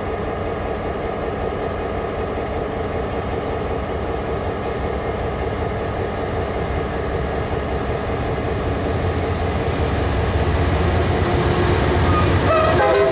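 A GE Genesis diesel-electric locomotive at the head of an Amtrak passenger train approaching: a steady engine drone and rumble that grows louder over the last few seconds, with a brief high wheel squeal on the curve near the end.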